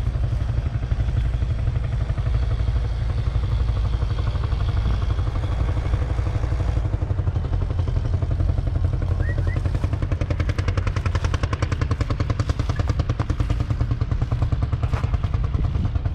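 1986 Case IH 956 XL's 5.9-litre six-cylinder diesel engine running steadily, its exhaust beating fast and even; some of the hiss drops away partway through and the beat grows more distinct.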